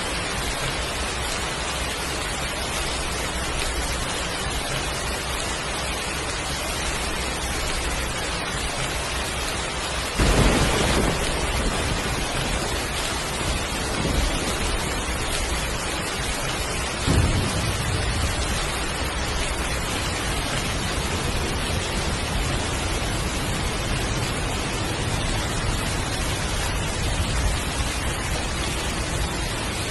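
Heavy rain falling steadily, with a sudden thunderclap about a third of the way in that rumbles for a couple of seconds, and a second, lower roll of thunder a few seconds later.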